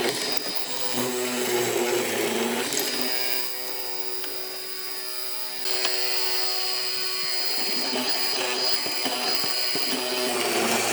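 Electric power tool motor running with a steady whine, its pitch and loudness stepping a few times as the load or speed changes.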